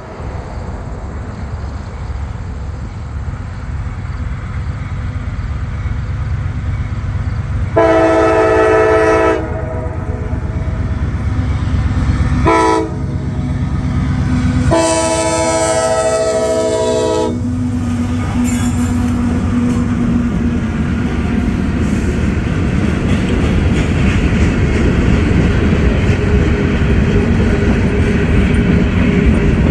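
A train approaching and passing, its rumble and wheel noise growing steadily louder, while the horn sounds three blasts: a long one, a short one, then another long one. Each blast is a chord of several notes.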